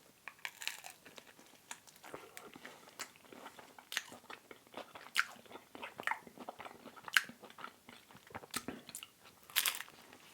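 A person biting into and chewing thin-crust seaweed pizza: irregular crisp crunches and clicks of the mouth, several a second.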